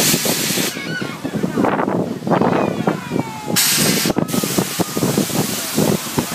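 Two short bursts of hissing air from the kiddie airplane ride, the second starting about three and a half seconds in, over a background of people's voices.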